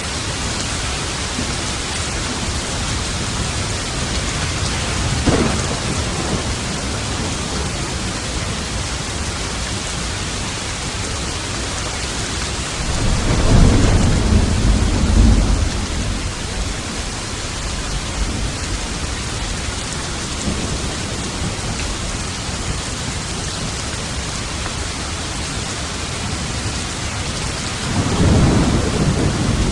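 Steady rain of a thunderstorm, with a brief crack of thunder about five seconds in, a long low rumble of thunder around the middle lasting about three seconds, and another rumble starting near the end.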